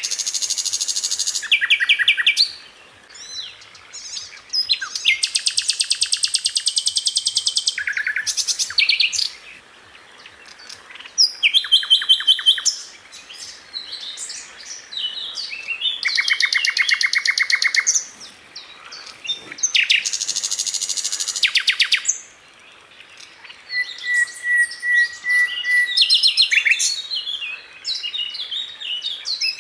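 Sikatan londo (a flycatcher) singing: loud, very fast rapid-fire trills lasting two to three seconds each, repeated about every four seconds, with shorter varied chirps and a brief steady whistle in between.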